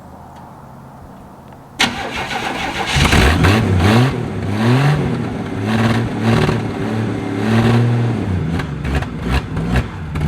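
An old Chevy pickup's straight-six engine, cold, turned over by the starter about two seconds in, catching and then revved up and down unevenly. The rough running is a sign of a poorly working carburetor, which the owner blames.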